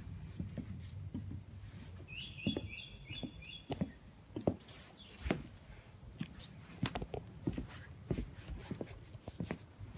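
A songbird singing a short phrase of about five quick chirps a couple of seconds in, over scattered clicks and knocks and a low rumble.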